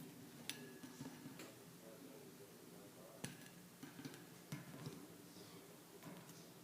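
Cockatiel's beak pecking and tapping on the camera: sharp, irregular clicks, a few close together and others spaced more than a second apart.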